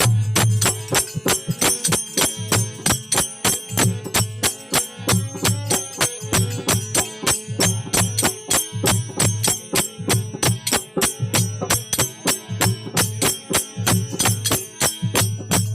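Instrumental passage of a Marwari folk bhajan: quick, even jingling metal percussion strokes, about five a second, over a steady drone and a pulsing drum.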